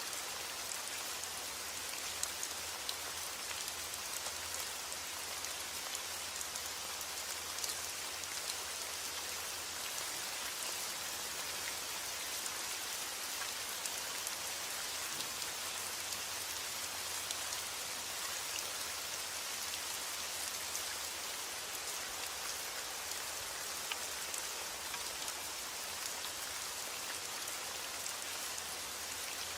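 Steady heavy rain falling on a roof, an even hiss with scattered individual drop strikes.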